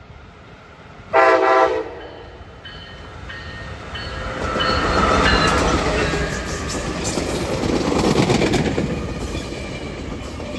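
Coaster commuter train sounding one short horn blast about a second in, then passing close by. The passing noise swells twice, with a run of high pings and fast rail clicks from the wheels.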